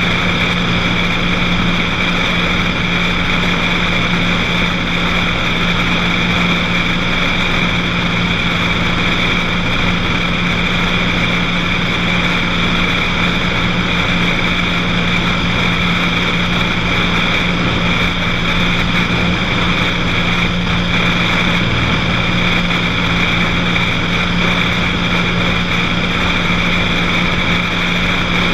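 Cessna 182's six-cylinder piston engine and propeller running at a steady power setting in flight, a constant drone with a low hum and a high whine.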